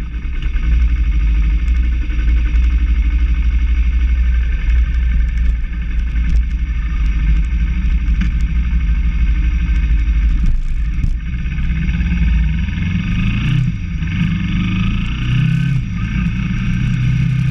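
Motorcycle engine running while riding, with a steady low rumble under it. The engine pitch rises and falls several times in the second half as the speed changes.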